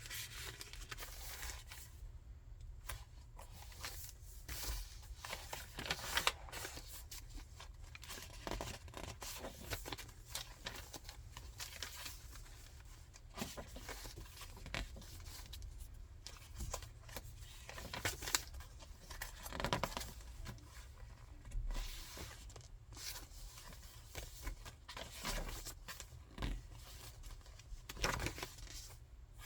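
Pages and cards of a thick handmade paper junk journal being turned and handled: irregular paper rustles and short crinkles.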